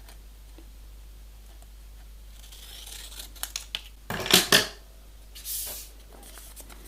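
Scissors cutting through printer paper: a few sharp snips about four seconds in, followed by a short papery rustle, with faint paper handling beforehand.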